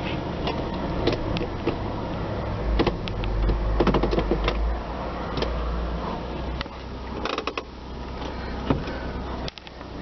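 2002 Nissan Pathfinder's V6 idling, heard from inside the cabin as a steady low hum, with scattered clicks and knocks from handling in the cabin.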